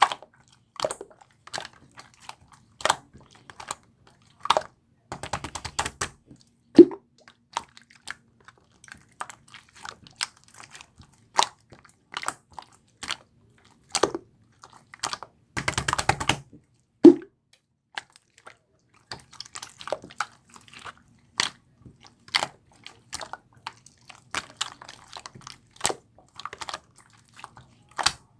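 Hands working a tough, chewy slime: scattered sharp pops and clicks as it is pressed and folded, with two short runs of rapid crackling, about five seconds in and again about sixteen seconds in.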